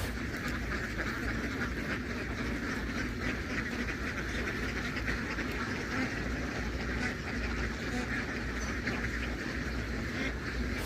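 A large flock of domestic ducks quacking together in a dense, steady chorus of many overlapping calls.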